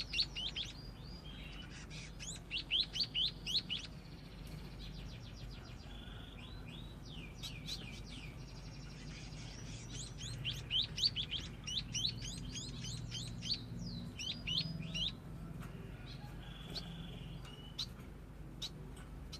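Scaly-breasted munia practising its song: bursts of quick, high, downward-sweeping chirps, several a second, broken by short pauses, the rambling song of a bird still learning to sing.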